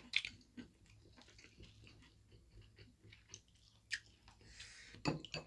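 People chewing food quietly with soft mouth sounds, broken by a few short sharp clicks: just after the start, near four seconds, and twice near the end.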